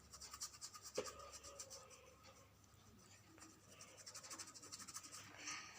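Paintbrush scrubbing paint onto a canvas board in quick, repeated strokes, faint, in two spells with a light click about a second in.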